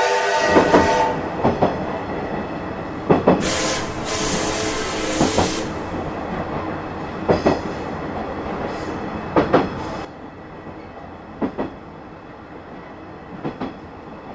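Train running: a steady rumble with a sharp knock every second or two, and a held tone with several notes that stops about a second in. A bright hiss comes in about three seconds in and stops at about five and a half seconds, and the rumble drops quieter at about ten seconds.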